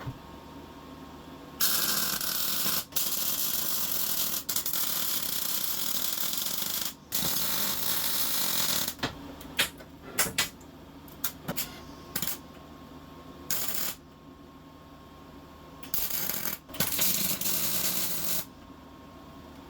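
Electric welding arc crackling in bursts as pieces of a metal seat frame are tacked together: a long run of about five seconds, a shorter one, a string of brief tack zaps, then another run near the end.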